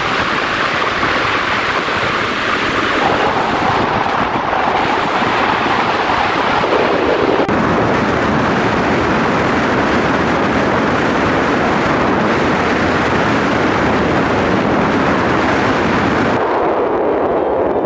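Steady, loud wind rushing over the microphone on a moving motorcycle, with no clear engine note standing out.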